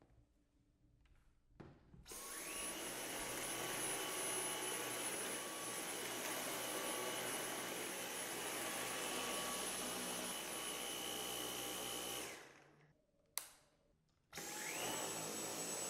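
Dyson Cyclone V10 cordless stick vacuum motor spinning up with a rising whine, running steadily with a high whine for about ten seconds, then winding down. After a click it starts again, spinning up with a slightly different high tone.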